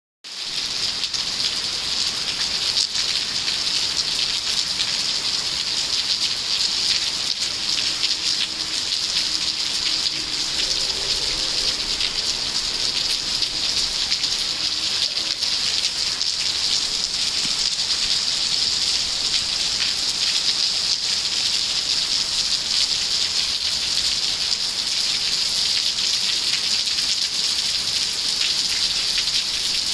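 Steady rain falling, an even hiss with countless small drop impacts pattering on surfaces.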